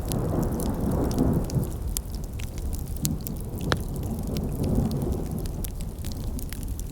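Wood campfire crackling, with scattered sharp pops over a steady low rumble. Two swells of louder rushing noise, one at the start and one about four seconds in.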